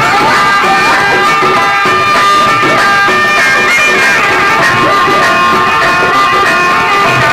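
Loud music played on a DJ sound system: a reedy lead melody of long held notes with a few short bends, over a dense backing.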